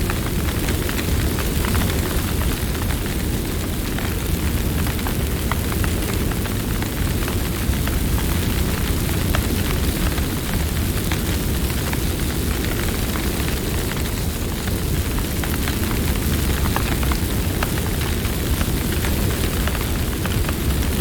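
Campfire burning: a steady low rumble under scattered sharp crackles and pops from the burning wood.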